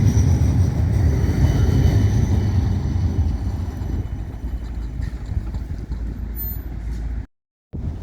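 Low rumble of a tram passing and fading away, with a brief dropout to silence near the end.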